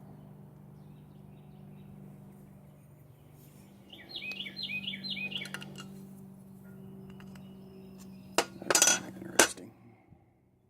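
Metal hand tools clinking: a cluster of sharp metallic clicks about eight and a half to nine and a half seconds in. A bird chirps a quick run of notes about four seconds in, over a low steady hum.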